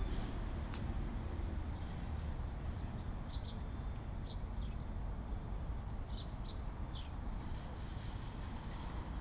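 Small birds chirping now and then, short high calls scattered through, over a steady low rumble of distant traffic or wind.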